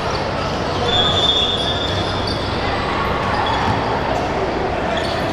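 Basketball game sounds in a gym: the ball bouncing on the court and a hum of crowd and players, with a brief high squeak about a second in.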